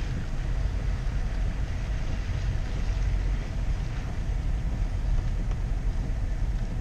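Steady low rumble of a car engine running while stopped, heard from inside the car's cabin.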